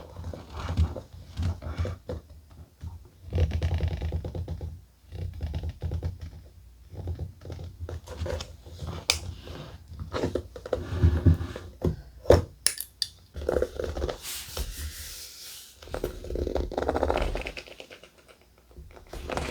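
Thick paper being handled on a desk: irregular rustling and scraping, with dull taps against the table and a few sharp clicks.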